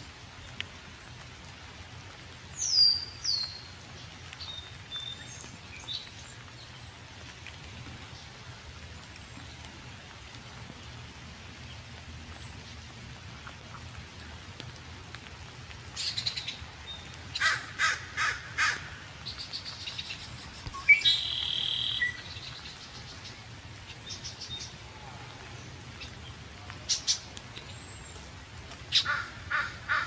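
Birds calling at intervals over a faint low hum: a single call about three seconds in, a quick run of short harsh calls around the middle, a louder call a few seconds later, and another run of short calls near the end.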